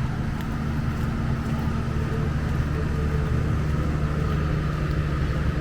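A steady low engine drone with a few constant low tones, running evenly throughout.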